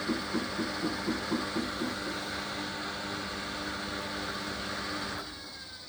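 Hoover washer dryer's drum motor running as the drum turns, with a pulsing beat about three times a second early on, then cutting out abruptly about five seconds in without going into spin.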